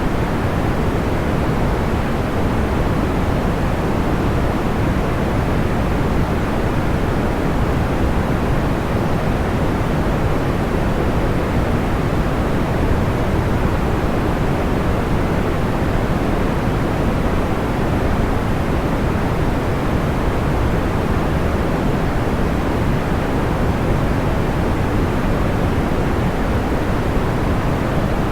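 Steady, even noise of a sleep white-noise track, weighted toward the low end like pink noise, unchanging throughout.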